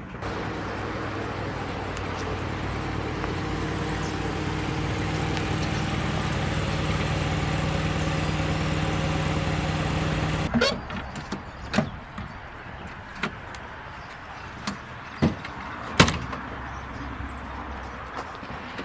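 A vehicle engine running steadily, growing slowly louder, then cut off sharply about ten seconds in; after it, a scatter of sharp knocks and clicks.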